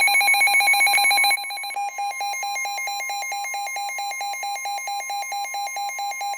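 Weather radio alert sounding: fast, even electronic beeping, louder for the first second and a half, over the steady NOAA Weather Radio warning alarm tone. It signals an incoming severe thunderstorm warning.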